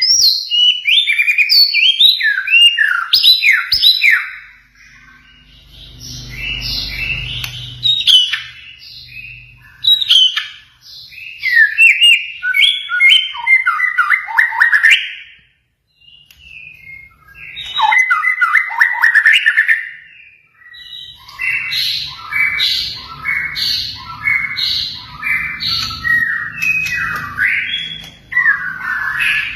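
Songbird song in fast runs of varied chirps, trills and whistled notes, broken by short pauses, from a masteran song-tutoring recording that combines cililin, canary, konin and katem song. A faint low rumble lies under some of the runs.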